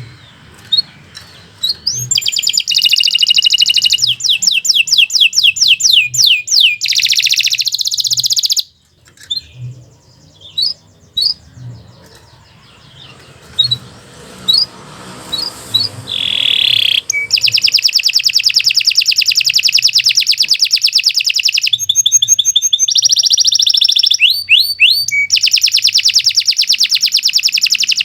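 Domestic canary singing long, loud, rolling trills of rapidly repeated notes. A quieter stretch of scattered short notes comes in the middle, before the trills resume.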